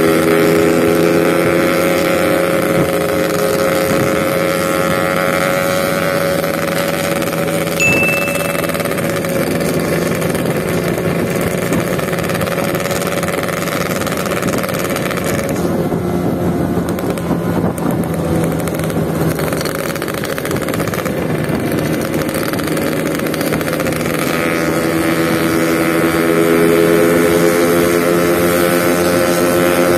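Yamaha RX King two-stroke motorcycle engine running at a steady cruise, heard from the bike with wind on the microphone. The engine note eases off in the middle and climbs again near the end.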